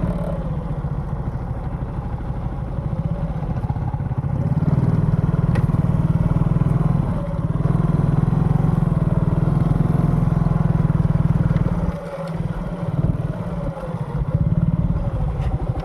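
Motorcycle engine running while riding, its pitch rising and falling with the throttle. It eases off for a moment about twelve seconds in, then picks up again.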